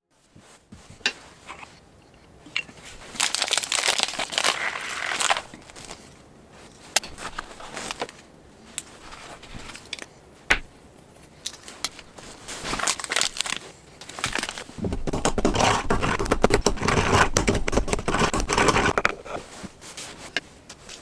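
Irregular rustling and crinkling with scattered sharp clicks, louder for a couple of seconds about three seconds in and again for several seconds from about fifteen seconds in.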